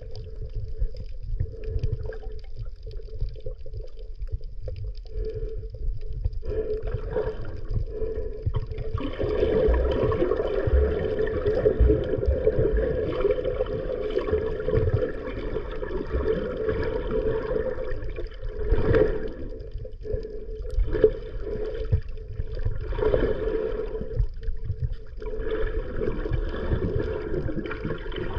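Underwater recording: muffled water movement and low rumble around the camera, with a steady droning hum that grows louder about nine seconds in and briefly fades twice.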